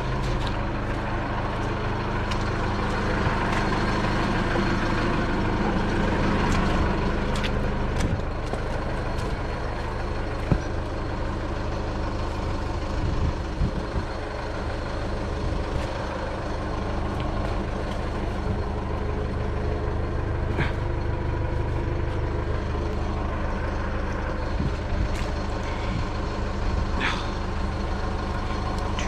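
A vehicle engine running steadily under way, with a few sharp knocks and rattles over it.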